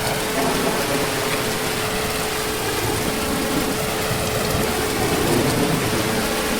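Heavy rain falling steadily, an even dense hiss and patter, with a steady tone running underneath.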